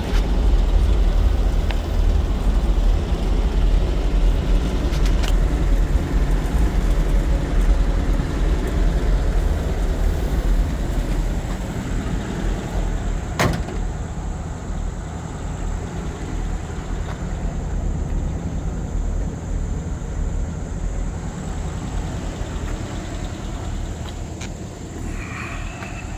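1952 Ford F3 truck running with a steady low rumble that eases off a little after the middle. A single sharp click sounds partway through.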